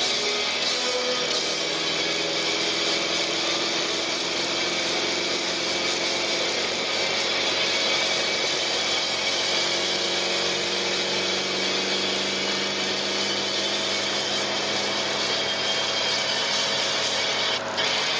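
Volvo P1800's four-cylinder engine heard from inside the cabin, cruising steadily with its pitch slowly drifting as the revs change, over steady road and wind noise.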